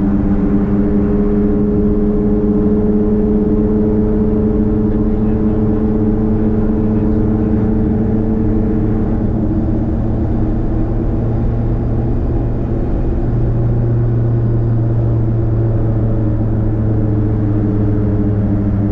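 Nissan Platina's straight-piped exhaust droning while driving at a steady engine speed, its tone shifting slightly about halfway through.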